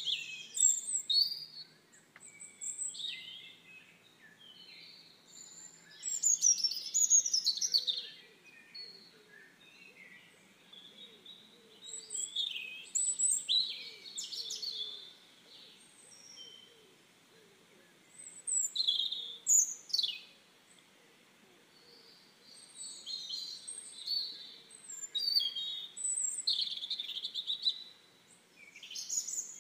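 Small birds chirping in bursts every few seconds: short high-pitched calls with quick rising and falling notes.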